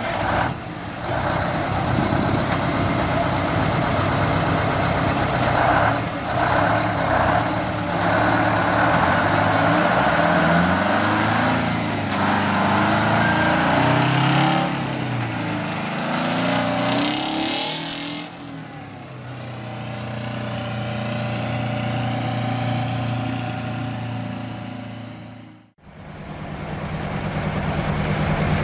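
Detroit Diesel truck engine running and revved up and down several times, then dropping to a steady idle, with a brief hiss just before it settles. After a sudden cut, a diesel engine idles steadily.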